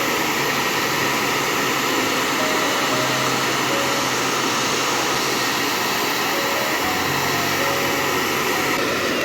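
Hair dryer blowing steadily on a loud, even rush of air, with soft background music beneath it.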